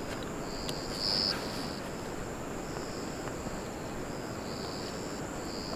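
Forest insects chirping: a steady high-pitched drone with short buzzy chirps that come again every half second to a second, over a steady low hiss.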